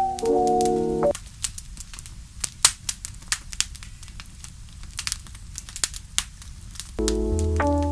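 Wood fire crackling in a fireplace: irregular sharp snaps and pops over a faint hiss. Soft music with held notes plays over it, stops about a second in, and comes back near the end with a low bass note.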